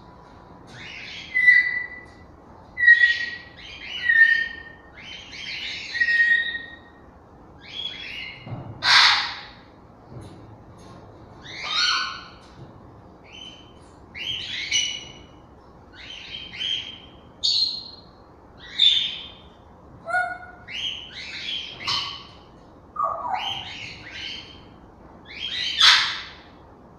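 African grey parrots calling: a string of short whistles and squawks, roughly one a second, some holding a clear whistled note. Two louder, harsh squawks stand out, one about a third of the way in and one near the end.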